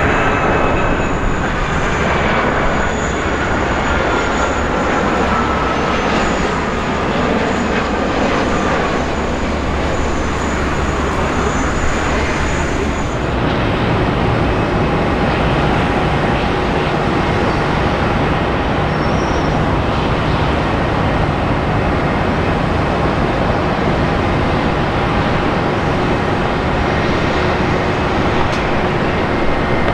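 Jet airliner engines running loud and close, with a high whine that slides slowly down in pitch over the first several seconds. About halfway through the sound changes to a deeper, steadier rumble with a faint steady hum.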